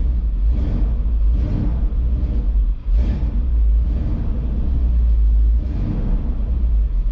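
Carbureted Ford F150 engine idling a little rough, its rumble swelling and fading about once a second, probably from debris in the carburetor after sitting about three weeks. The noisy 7.3 diesel that jump-started it runs alongside.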